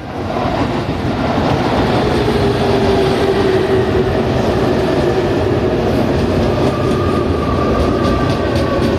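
Tobu 20050-series five-door electric commuter train (set 21854F) pulling into the station: the rumble and clatter of its wheels on the rails grow loud in the first second and then hold steady. A faint whining tone runs over the rumble as the train slows to a stop.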